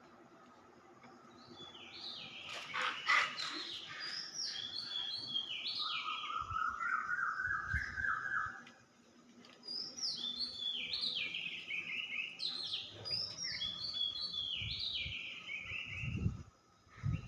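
A songbird singing two long bouts of song, each a quick run of notes that step down in pitch. The first bout ends in a lower, faster trill.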